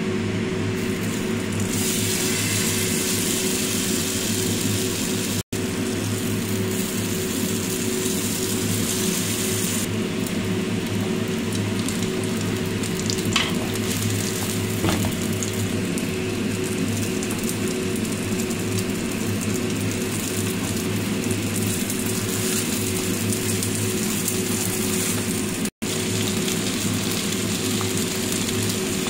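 Oyster and spring-onion pancake frying in a non-stick pan, a steady sizzle over a constant low hum, with a couple of faint clicks midway.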